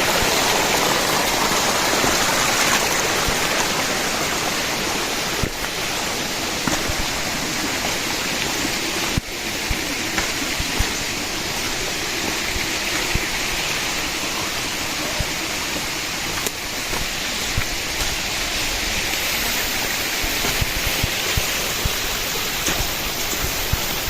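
Steady rush of running water in the rain forest, an even hiss that shifts abruptly in level a couple of times.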